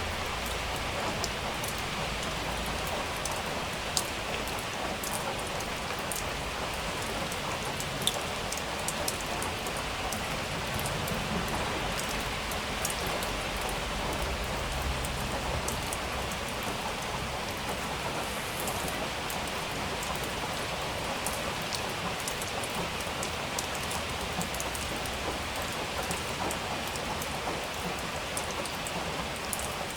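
Steady rain falling, a continuous hiss with scattered close drop strikes clicking over it, two of them sharper about four and eight seconds in.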